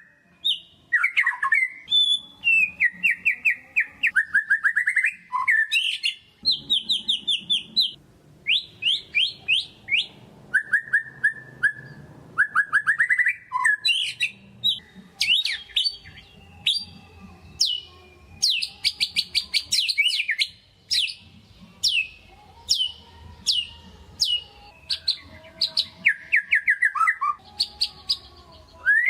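White-rumped shama singing in full, fast varied song: rapid trills and runs of sharp repeated whistled notes, phrase after phrase with only short gaps.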